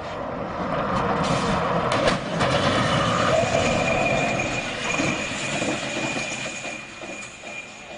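Rumbling vehicle noise with a steady high squeal running through it, swelling about a second in and fading near the end.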